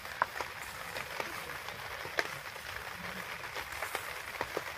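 Light rain falling steadily, with scattered sharp ticks of drops. Boiled potatoes are being mashed by hand in a steel bowl at the same time.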